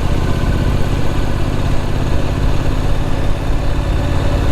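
Triumph Street Scrambler's parallel-twin engine running steadily under way, with an even rush of noise over it.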